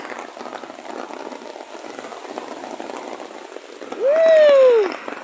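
Heavy rain pouring down, a steady patter. About four seconds in, a loud call of about a second rises briefly and then falls in pitch.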